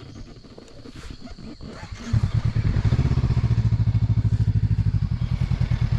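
Motorcycle engine starting up about two seconds in and then running at idle with a rapid, even pulsing. Before it starts there are a few faint clicks.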